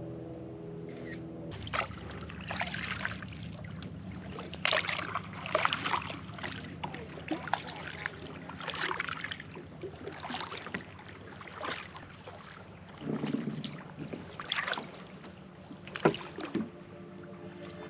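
Kayak paddle strokes dipping and splashing in the water, roughly one stroke a second, over a steady low hum.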